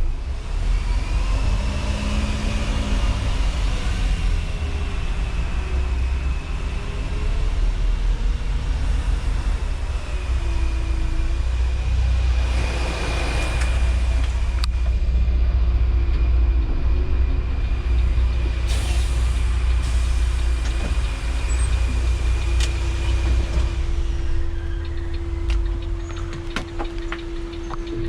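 Intercity coach bus engine running as the bus drives, a steady low rumble with a thin steady whine above it. A short hissing burst comes about halfway through, and a steady hum joins near the end.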